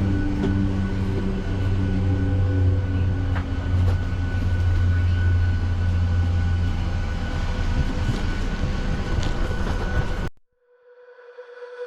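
Steady low rumble of a moving vehicle heard from inside, likely a train or people mover. It cuts off abruptly about ten seconds in, and a music tone fades in.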